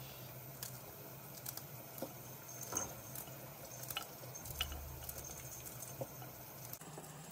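Light scattered clicks and taps, one every second or so, over a steady low hum: household objects being handled.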